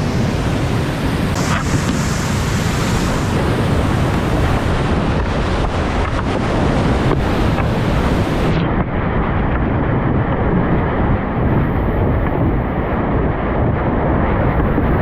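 Steady rush of river water mixed with wind buffeting the microphone. About halfway through, the high hiss drops away and the sound turns duller.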